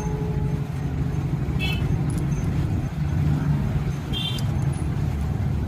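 Suzuki Access 125 scooter's single-cylinder four-stroke engine idling steadily with a low, rough rumble, just after its timing chain, rocker arms and camshaft have been replaced.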